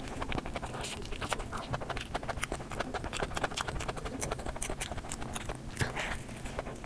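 Close-miked chewing and biting of a burger: a dense, continuous run of rapid mouth clicks and smacks, with a louder bite near the end.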